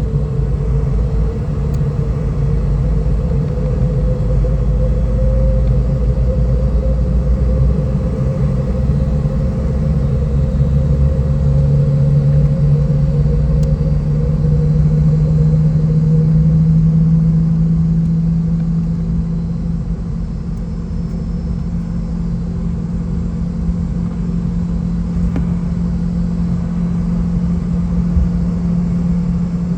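Steady cabin drone inside a Boeing 717-200 on the ground before takeoff: a loud, even hum with a deep rumble under it that fades about halfway through.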